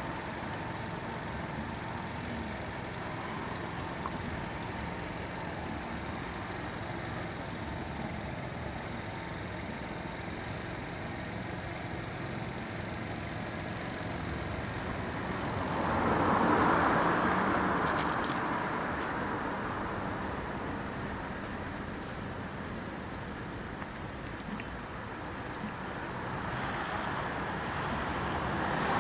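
Road traffic: a steady hum of cars on the road, with one vehicle swelling past a little over halfway through and another approaching near the end.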